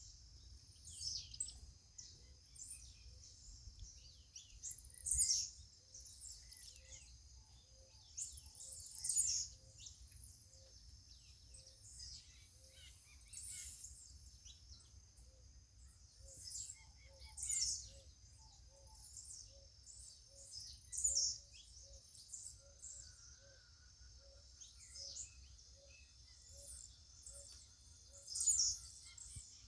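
Birds chirping and calling outdoors in short high bursts every second or two, over a steady high-pitched ringing drone. A soft low call repeats a little more than once a second from about two seconds in, with a faint low rumble beneath.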